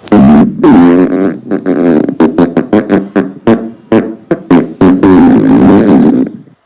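Fart sound effects from a phone soundboard app, played back to back: a few longer flatulence sounds at the start and end, with a quick run of short fart bursts in the middle, cutting off abruptly shortly before the end.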